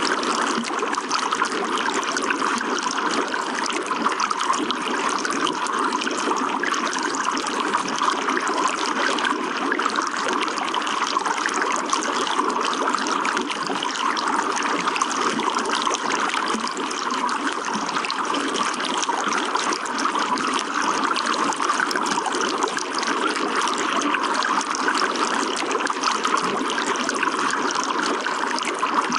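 Running water trickling and splashing steadily, with a continuous rush and many small splashes.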